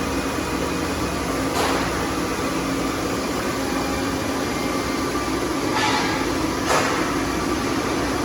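Hyd-Mech M-20A automatic horizontal bandsaw running: a loud, steady machine hum with several motor tones. Short bursts of hiss come about a second and a half in and again near seven seconds.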